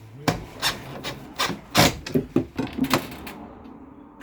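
A hand tool worked back and forth on wood: about eight quick rasping strokes, stopping about three seconds in.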